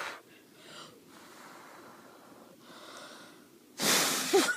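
A dog snorting and breathing close to the microphone, with soft breaths through the middle and a loud huff about four seconds in that carries a brief squeak.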